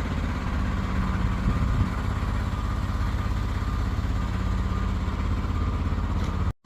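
Mack Anthem semi truck's diesel engine running steadily at a low, even pitch. The sound cuts out abruptly near the end.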